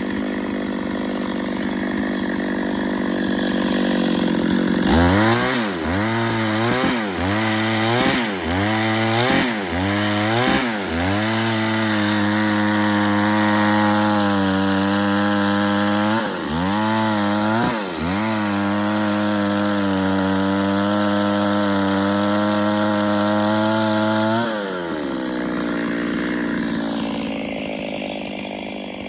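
Two-stroke chainsaw idling, then revved in about six quick bursts, then held at high revs for about thirteen seconds with two brief dips while cutting through wood, before dropping back to idle.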